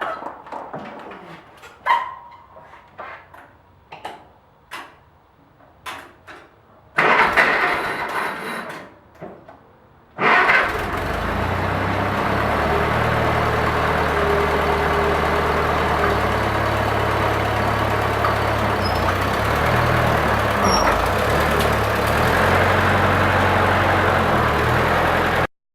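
Cold start of a Farmall tractor's four-cylinder gas engine. Several clicks and knocks, then a few seconds of cranking. After a short pause the engine catches about ten seconds in and runs steadily until it cuts off abruptly near the end.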